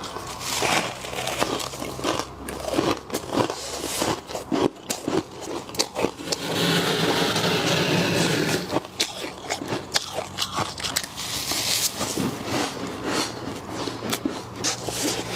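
Frost being bitten and chewed close to the microphone: a run of sharp, irregular crunches and crackles, with a denser, continuous crunching stretch of about two seconds midway.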